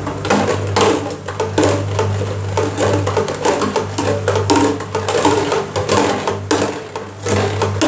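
Washing machine drum turning on a rinse cycle, its motor humming steadily under repeated irregular knocks and thuds as the cardboard Pringles carton tumbles against the drum.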